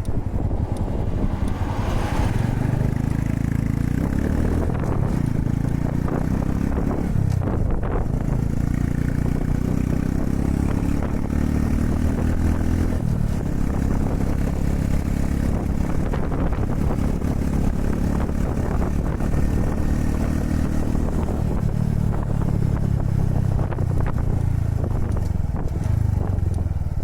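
Honda Super Cub 110's small single-cylinder four-stroke engine running while riding, its revs dropping and climbing again several times. Strong wind noise buffets the microphone throughout.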